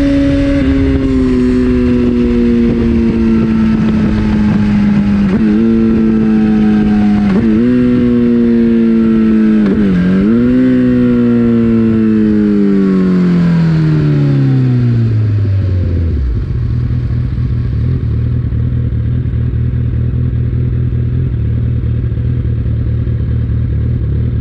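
2014 Kawasaki ZX14R's inline-four engine through an Akrapovic racing-line exhaust, its note falling as the bike slows, with three short rises in pitch at downshifts. About two-thirds of the way in it settles into a steady idle.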